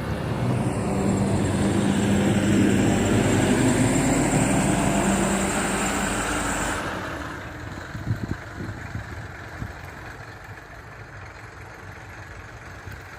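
A bus passing close by, its engine running loud with a steady high whine. About seven seconds in, the whine cuts off and the bus fades away.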